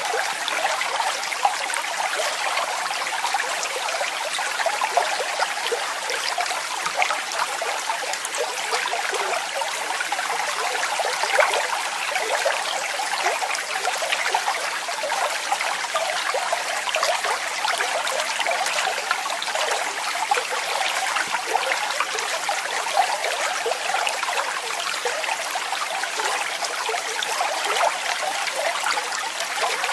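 Waterfall: falling water splashing steadily and evenly, a dense hiss of many small splashes with little deep rumble.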